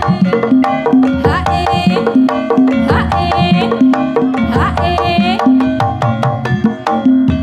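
Javanese Banyumasan gamelan music: hand-drum (kendang) strokes in a fast, driving rhythm under repeating struck metallophone notes, with a high melodic line that glides in pitch about a second in, at three seconds and again near five seconds.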